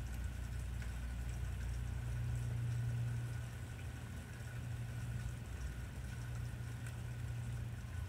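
Rain falling in a storm, scattered drops ticking over a steady low rumble that swells a couple of seconds in and then eases.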